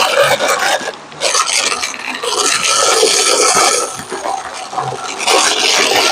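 Vacuum cleaner brushroll close on the microphone, a crunchy rasping and scraping that surges unevenly, with a brief drop about a second in and a softer stretch around four seconds in.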